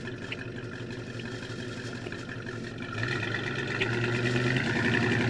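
1971 Plymouth Road Runner's 383 V8 running steadily, then about three seconds in its note steps up and grows gradually louder as the car accelerates.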